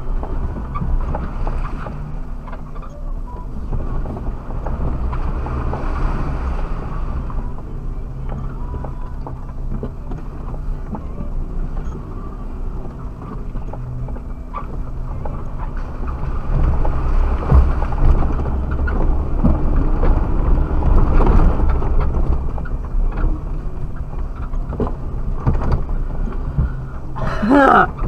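Suzuki Jimny engine running as the 4x4 drives over rough off-road ground, with knocks and rattles throughout; it gets louder for several seconds in the middle. A short wavering sound comes near the end.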